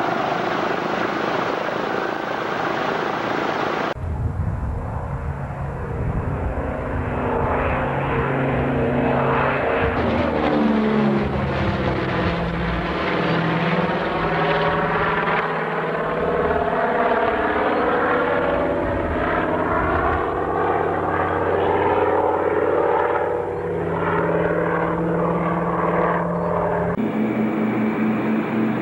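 Propeller engines of a PBY-5A Canso water bomber running loudly, the propeller tone sliding up and down in pitch as the aircraft moves. The sound changes abruptly about four seconds in and again near the end.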